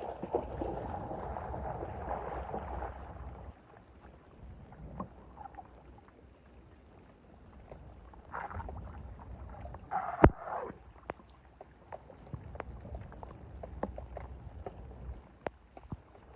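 Water splashing and sloshing, loudest in the first few seconds, with scattered small knocks and one sharp knock about ten seconds in, as debris is worked loose from a clogged drain.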